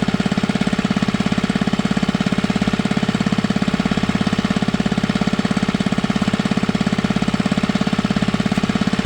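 Small engine running steadily, with a rapid, even chugging beat.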